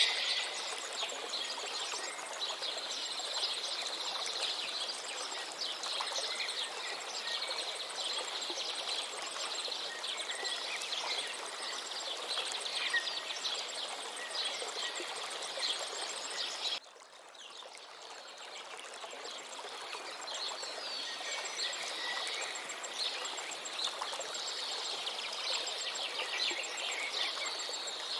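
A river flowing steadily with songbirds chirping over it. About 17 s in, the sound drops suddenly and swells back up over a few seconds.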